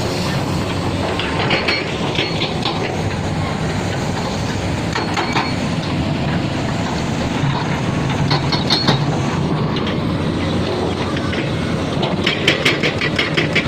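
Heavy construction machinery running steadily with a deep engine drone, with metallic clanks and squeals coming every few seconds and a quick rattle of clanks near the end.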